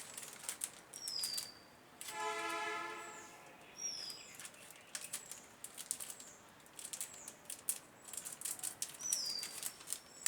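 Light clicks and taps throughout, with a bird's short high whistle falling in pitch three times. About two seconds in, a steady horn-like tone is held for just over a second.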